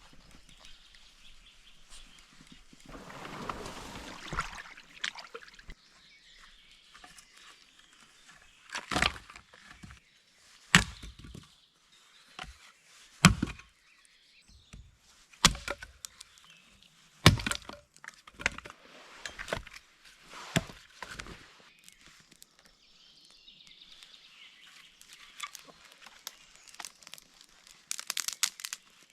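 Sharp wooden cracks and knocks: about seven separate strikes a second or two apart, the loudest near the middle, with a soft rustle early and a quick run of small cracks near the end.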